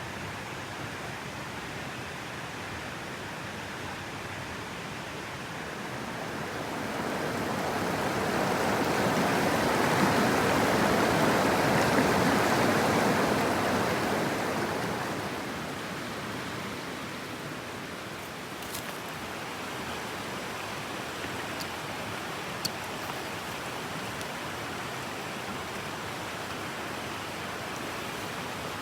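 Mountain stream water rushing steadily, swelling louder for several seconds in the middle before settling back. A few faint ticks sound in the second half.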